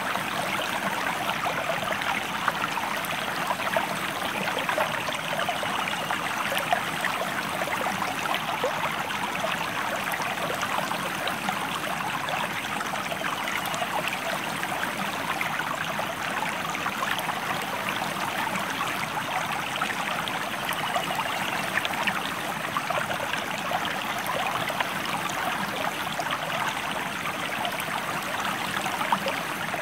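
A stream running steadily: a constant rush of water with a fine, splashy crackle and no letup.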